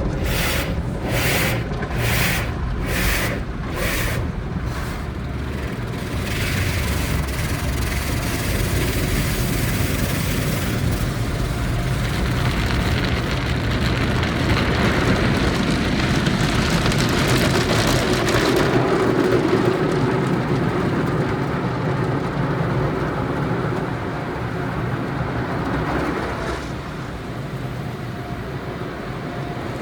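Sonny's tunnel car wash equipment heard from inside a car passing through: a regular slapping about every three quarters of a second for the first few seconds, then a steady heavy rush of wash noise that eases somewhat near the end.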